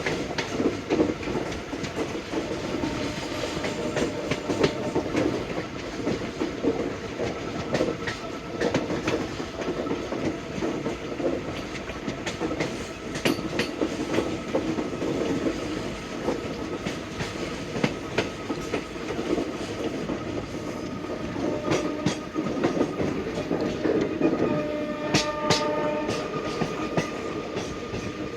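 Passenger coach wheels running over the track at speed, with the clickety-clack of wheels crossing rail joints over a steady rumble.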